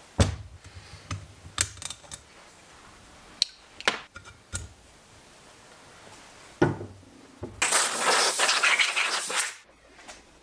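Small metal parts clinking and knocking on a hard surface, about eight separate clicks, then a loud hiss lasting about two seconds near the end.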